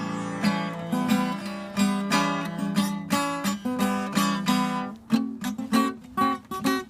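Acoustic guitar being strummed, an instrumental stretch of a song with no singing; the chords turn into shorter, choppier strokes about five seconds in.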